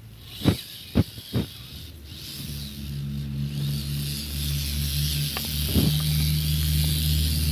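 Three sharp knocks in quick succession, then a steady low motor hum that starts about two seconds in and slowly grows louder.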